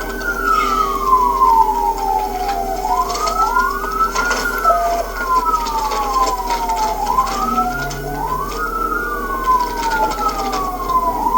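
Two police car sirens wailing together, slightly out of step. Each rises quickly and falls slowly, repeating about every three and a half seconds.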